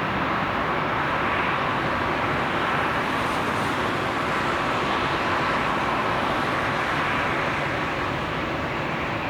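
Steady noise of a jet airliner's engines, easing slightly near the end.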